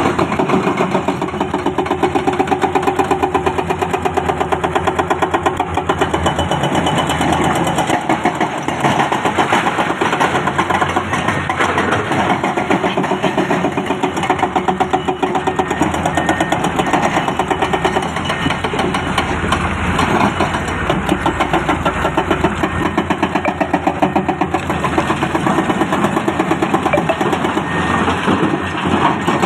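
Heavy diesel engine of construction machinery at an excavation site, running steadily with a fast, even pulse.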